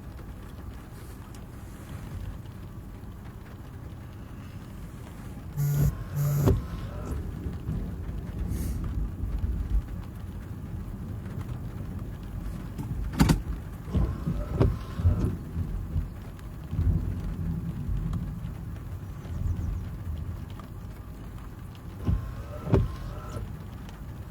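Thunderstorm: steady rain with a low rumble, broken by several sharp knocks, the loudest about thirteen seconds in.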